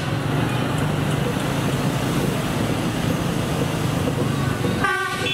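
A steady engine and road-traffic drone, then a train horn starts a blast near the end, as the track inspection train runs along the street.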